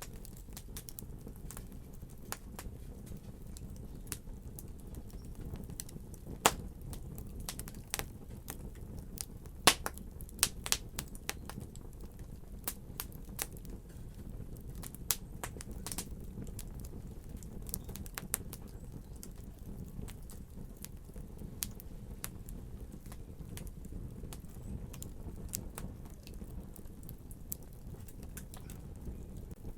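Wood fire burning: a steady low rumble with sharp crackles and pops at irregular intervals, the loudest cluster of pops between about six and eleven seconds in.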